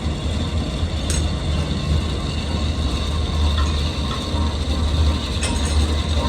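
A workshop machine running with a steady low hum, with a couple of brief metallic clicks about a second in and near the end.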